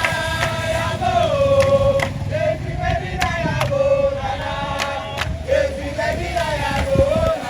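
A crowd of demonstrating nurses and midwives singing together in unison, a long sustained tune that rises and falls, with scattered sharp clicks through it.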